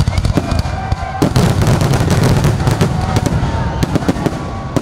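Aerial fireworks going off in a rapid barrage: many sharp bangs, with a dense crackling from about a second in.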